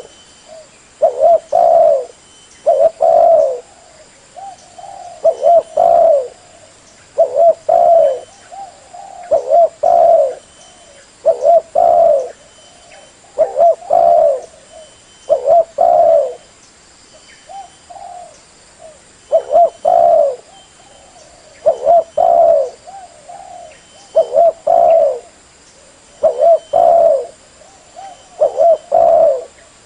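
Spotted dove cooing: loud phrases of two or three low coo notes, repeated about every two seconds, with softer coos between.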